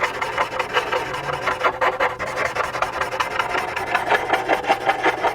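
Charcoal pencil scratching on textured charcoal paper in rapid back-and-forth shading strokes, about ten a second, stopping abruptly near the end.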